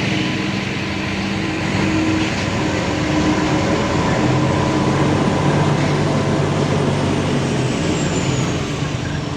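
Large truck's diesel engine running steadily, with its pitch shifting slightly partway through.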